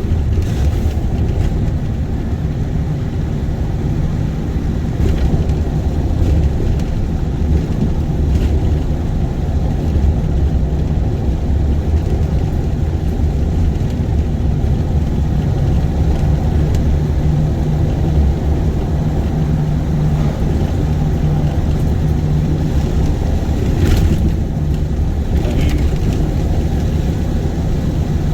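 Car driving, heard from inside the cabin: a steady low road and engine rumble with a few sharp knocks and rattles as it goes over bumps, the loudest about 24 seconds in.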